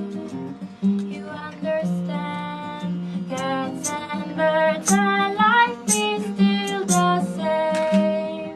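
Acoustic guitar strummed while a high voice sings a melody.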